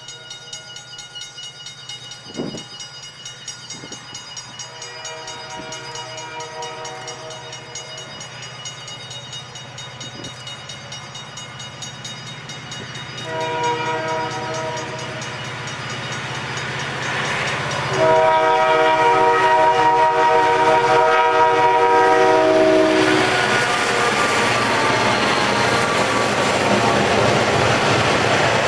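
Approaching diesel freight locomotives sounding a multi-note air horn in several long blasts, each louder than the last, over the low drone of the engines. Near the end the locomotives pass close and the freight cars rumble and clatter by on the rails.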